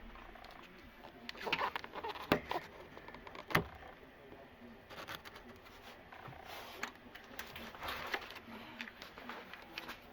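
Irregular knocks, clicks and scrapes of hands and tools working at a bathroom vanity cabinet and its plumbing, with the sharpest knocks a couple of seconds in and again about a second later.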